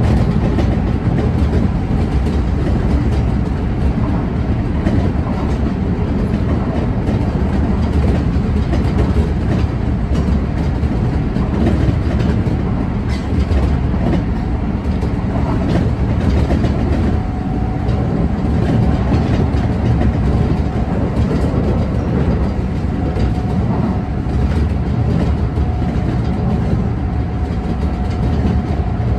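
Kintetsu electric train running at speed, heard from inside the front car: a steady rumble of wheels on rail with scattered clatter from the track. Past the middle a faint steady whine comes in.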